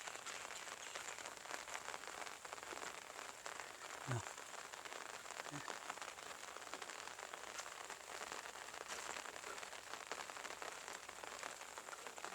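Steady light rain falling, a faint even hiss full of fine drop ticks. A short low falling sound comes about four seconds in.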